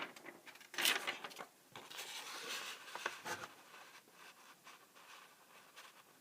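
Trading cards being handled: rustling and small clicks, loudest about a second in and again a little later, then fainter.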